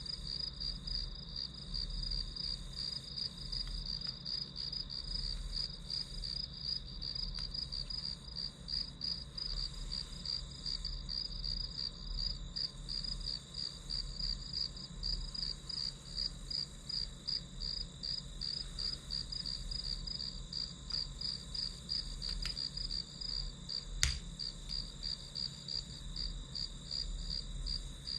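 Crickets chirping in a steady, even pulse, with a faint low hum underneath. There is a single sharp click about 24 seconds in.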